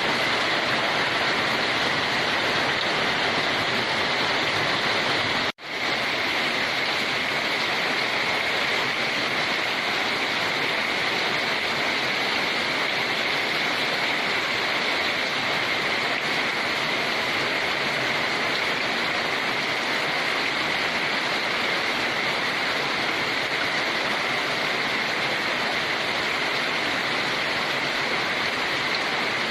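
Steady rain. It cuts out for an instant about five and a half seconds in, then fades back.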